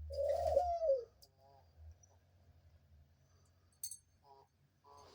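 Pet dove cooing: one long coo in the first second that holds steady and then falls in pitch at its end, followed by faint softer sounds.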